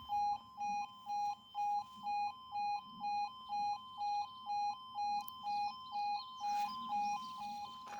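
Level crossing audible warning alarm sounding: an electronic two-tone signal alternating evenly between a higher and a lower note about twice a second, warning that the barriers are down and a train is approaching.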